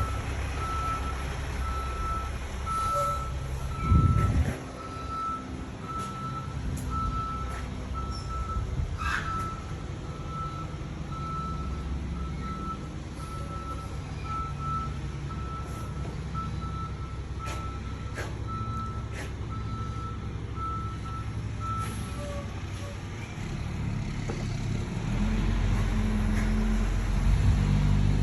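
A heavy vehicle's reversing alarm beeping steadily about once a second over a low engine rumble. The beeping stops a little past three-quarters of the way through, and the engine grows louder near the end. There is a single loud thump about four seconds in.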